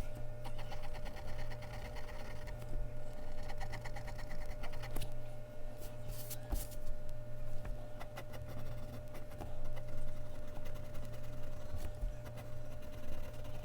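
Mechanical pencil lead scratching across Bristol paper in quick runs of back-and-forth shading strokes, coming in bursts with short pauses, over a steady low electrical hum.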